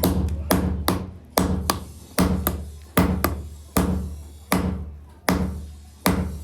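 A hammer striking metal in a steady rhythm, with a heavy blow about every 0.8 s and a lighter strike between. Each blow rings briefly. A steady machine hum runs underneath.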